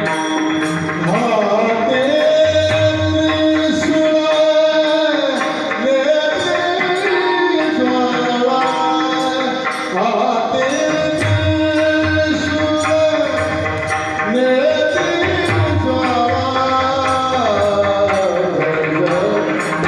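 Male devotional singer performing a Marathi kirtan melody, holding long ornamented notes that glide between pitches in phrases a few seconds long, over drum accompaniment keeping a steady beat.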